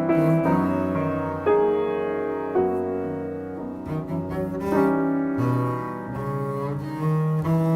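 Double bass bowed with piano accompaniment: slow, sustained bowed bass notes over struck piano chords, in a meditative modern classical duo.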